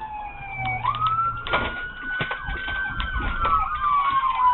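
Police sirens during a pursuit: one wails in slow sweeps, jumping up about a second in, then falling slowly. From about three seconds in, a second siren yelps in quick up-and-down sweeps. Underneath are the engine and road noise of a moving patrol car.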